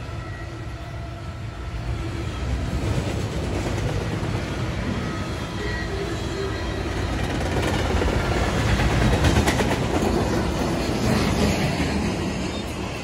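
Double-stack intermodal freight cars rolling past: a steady rumble of steel wheels on rail with scattered clicking, growing louder over the first few seconds and loudest about three quarters of the way through.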